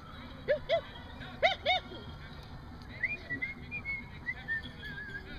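A handler calling a barn owl to fly to her, with repeated pairs of short rising-and-falling notes, two pairs in the first two seconds. In the second half a higher, wavering whistle-like tone follows.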